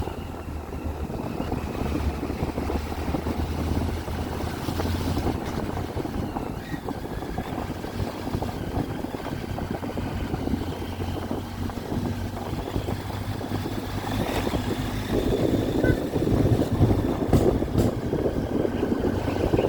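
Triumph Tiger 800's three-cylinder engine running under way, with wind and road rush over it; it gets louder about fifteen seconds in.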